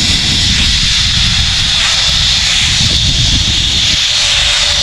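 Zipline trolley pulleys running fast along the steel cable, giving a steady high hiss-like whir, with wind buffeting the microphone in a low rumble.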